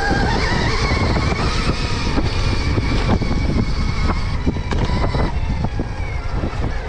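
Stark Varg electric motocross bike's motor whining as it is ridden, the whine rising in pitch near the start and then holding, over a heavy low rumble. A scatter of sharp knocks comes from the bike working over the rough track.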